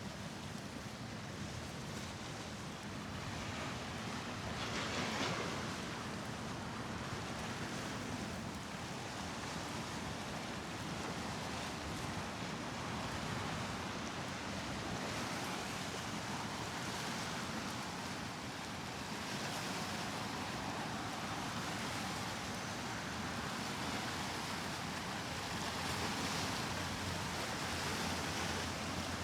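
Steady rushing outdoor noise of a waterfront at night, swelling briefly about five seconds in.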